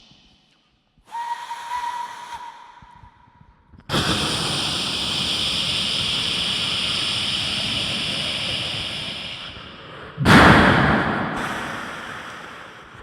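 Vocal imitation of a steam locomotive: a short steady whistle tone about a second in, then a long loud steam hiss from about four seconds that slowly fades, and a second sudden burst of hiss near the end that dies away.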